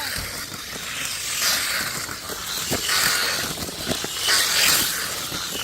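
Tamiya Mini 4WD toy cars running on a plastic track: a high whir from their small electric motors with plastic rattling, swelling and fading several times as they pass, and a few sharp clicks.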